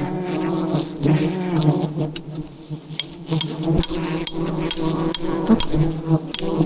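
Swarm of wild bees buzzing around their nest, a dense steady hum that dips briefly a couple of seconds in. A run of sharp clicks comes through the second half.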